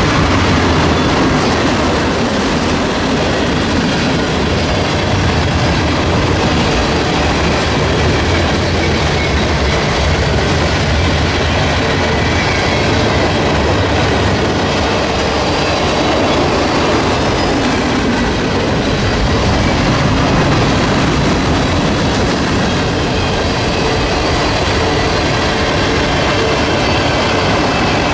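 Freight train cars rolling past on the rails, a steady loud rumble and clatter of wheels on track.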